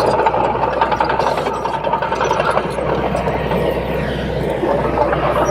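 Bulldozer's heavy diesel engine running steadily with a deep, even hum.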